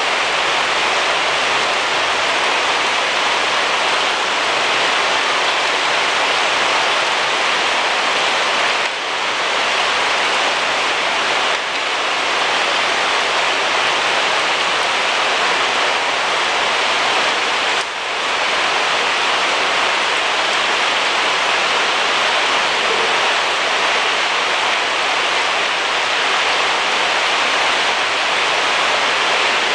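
Heavy rain falling in a steady, dense hiss, dipping briefly three times.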